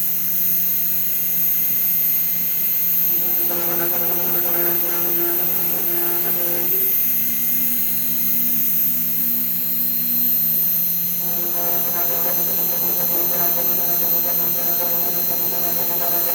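Fox Alien XE-PRO CNC router running: a steady spindle hum and high whine, joined about three seconds in by pitched motor tones that jump to a new pitch twice as the machine moves.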